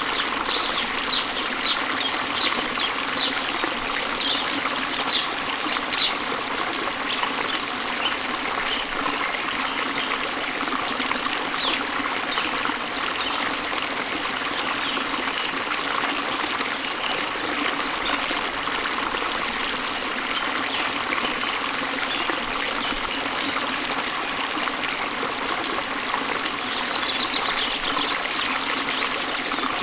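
Waterfall water rushing steadily, with a small bird chirping high and short, about once a second at first, then scattered, and in a quick run near the end.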